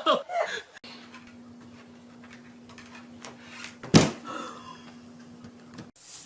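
A single sharp knock about four seconds in, the loudest sound, over a faint low steady hum.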